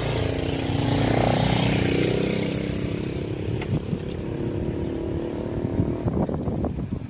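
A motor vehicle engine running, loudest about a second or two in and easing after.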